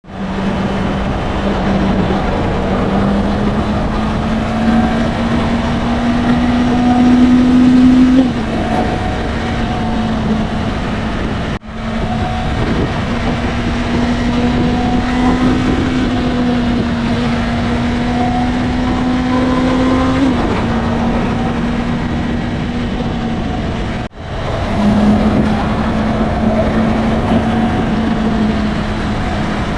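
Honda CB650R inline-four on its stock exhaust, running at steady revs under a constant rush of wind and road noise. The engine note climbs slowly, then drops suddenly about 8 seconds in and again about 20 seconds in, as with a gear change or the throttle rolled off. The sound cuts out briefly twice, at edits between clips.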